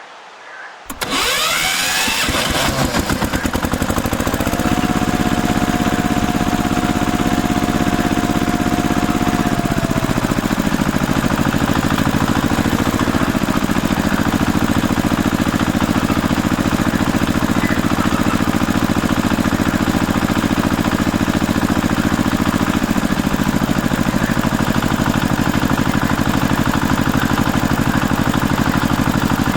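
An engine starts abruptly about a second in, then runs steadily at a constant pulsing idle.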